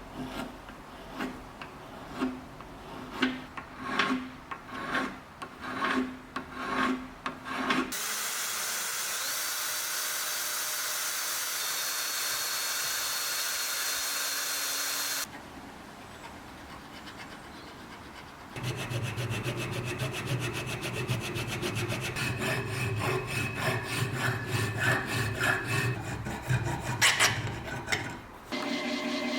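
Workshop tool sounds in several cuts: about eight seconds of regular rubbing strokes of a hand tool, roughly one and a half a second, then a steady hiss for several seconds. Near the end a machine runs with a low steady hum and rapid ticking, then cuts off suddenly.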